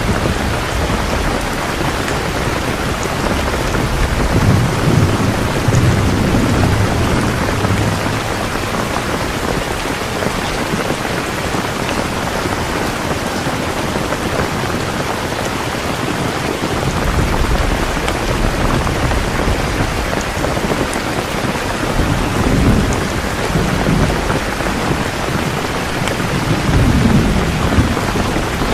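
Steady heavy rain, with low rumbles of distant thunder swelling a few seconds in and twice near the end.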